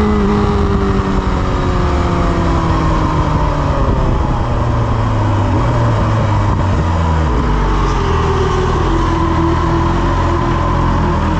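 BMW S1000RR's inline-four engine winding down as the bike slows, stepping down through second and first gear into neutral. The revs fall over the first few seconds, then settle to a steady idle about seven seconds in.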